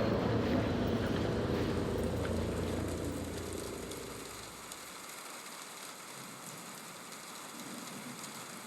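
A streetcar rumbling past and fading away over the first four seconds or so. After that, a steady hiss of light rain falling on a street.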